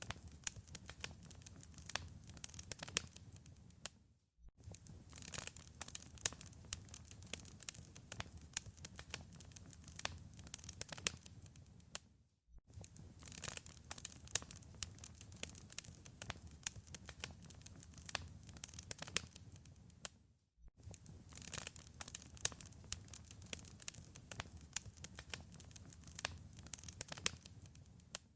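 Wood fire in a fireplace crackling, with dense sharp pops and snaps over a low rumble. It briefly drops to near silence about every eight seconds, as if a short recording is being looped.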